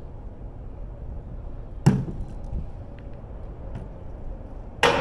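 Two heavy impacts of scrap metal thrown out of a dumpster and landing, one about two seconds in and a louder one near the end that rings briefly.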